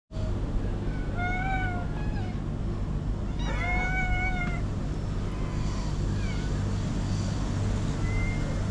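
Street cats meowing at feeding time: about five drawn-out meows, spaced a second or more apart, over a steady low rumble.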